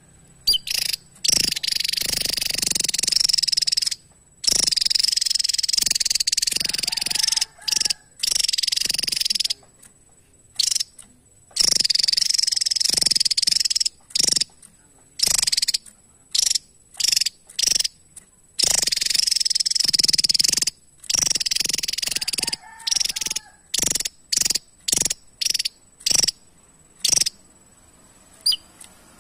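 Javan tesia calling in repeated bursts of rapid, high-pitched chattering. Several runs last two to five seconds, and between them come clusters of short, sharp notes.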